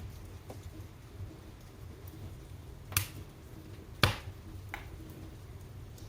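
Wood fire burning in a fireplace with a low steady rumble and faint crackling, broken by two sharp pops about three and four seconds in and a smaller one shortly after.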